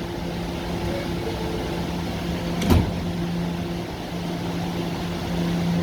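Staten Island Railway subway car standing at a station, its electrical equipment giving a steady hum. A single sharp thud about three seconds in, as the doors close after the "stand clear of the closing doors" announcement.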